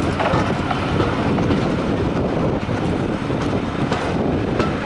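Passenger train carriage running along the track, heard from on board: a steady rumble and rattle of the wheels, with a few faint clicks.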